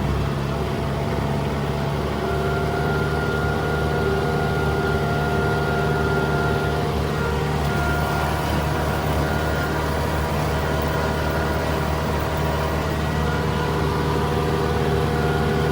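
Tractor engine and rotary mower running steadily under load while mowing, a constant drone with a few steady whining tones on top.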